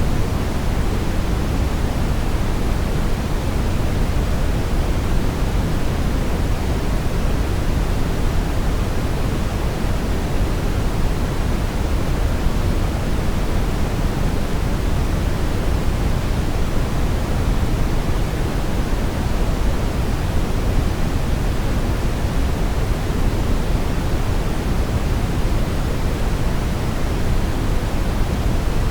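Steady brown noise: an even, unbroken rushing hiss weighted heavily toward the low end, with no changes or events.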